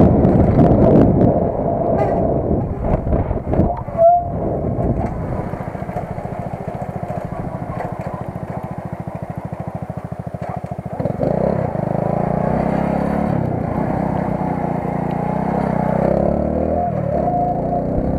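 Vehicle engine running at low revs with a steady, even pulse. About eleven seconds in it picks up and gets louder, with a brief knock and squeak before that.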